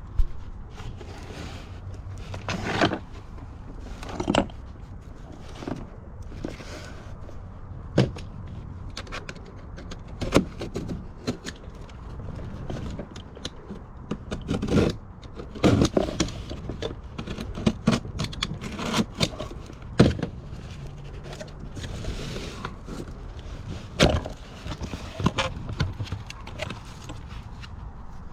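Irregular knocks, clatters and scrapes of objects being picked up, shifted and set down while rummaging, with rustling in between, over a low steady rumble.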